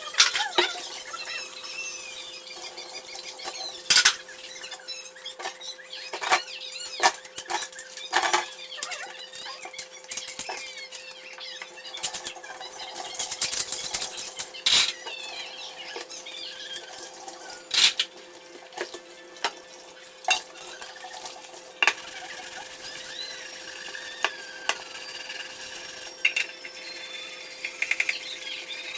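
Dishes and cutlery clattering and clinking as they are handled, with sharp knocks scattered irregularly throughout, the loudest about 4 s, 8 s and 18 s in, over a faint steady hum.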